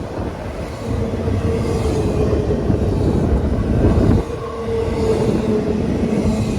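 CSX intermodal freight train rolling past, a dense steady rumble of railcar wheels on the track. A thin steady whine runs through most of it.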